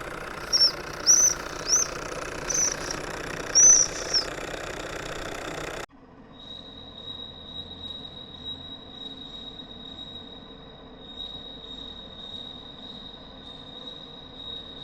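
Small live steam engine whistles: about five short high toots in the first four seconds over a hissing background. After a sudden cut, a steady high whistle tone is held, with hissing steam beneath it.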